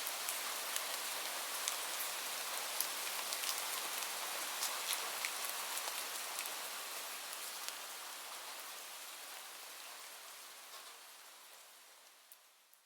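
Steady rain with individual drops ticking sharply, fading out gradually over the second half until it is almost gone at the end.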